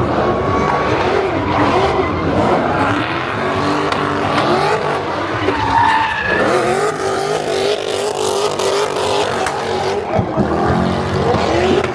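Car engine held at high revs, its pitch rising and falling repeatedly, with tyres squealing continuously as they spin in a burnout.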